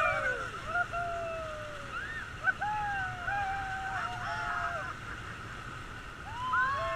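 Several people on river rafts shouting and whooping in long rising-and-falling calls, clustered near the start, again from about two and a half to five seconds in, and near the end, over the steady rush of river water.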